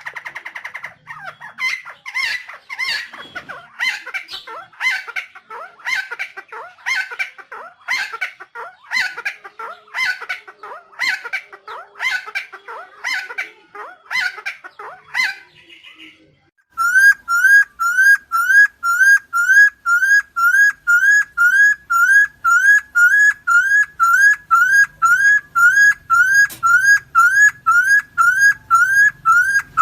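Helmeted friarbird calling, a quick run of harsh repeated notes about one every half second. About sixteen seconds in, the sound cuts abruptly to a steady series of short rising whistled notes, about two a second.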